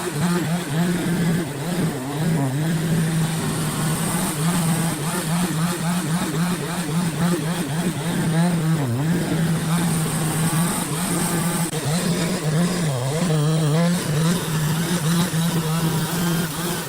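An engine running at a steady high speed, its pitch dipping and recovering three times.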